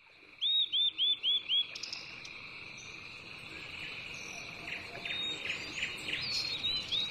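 A bird calling outdoors: a run of five quick, repeated arched chirps, then a looser series of chirps later on. Under it runs a steady high insect drone.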